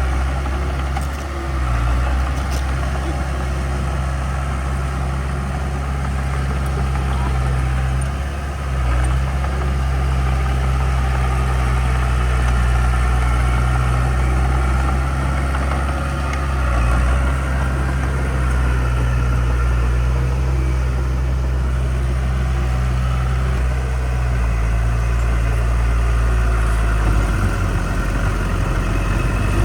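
Heavy diesel engine of earth-moving equipment running steadily with a low drone, its pitch shifting near the end.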